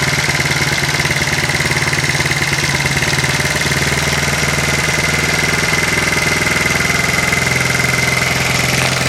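Honda C70 motorbike's small single-cylinder four-stroke engine running steadily at a fixed throttle, with a steady high whine above it. The low engine note shifts slightly near the end.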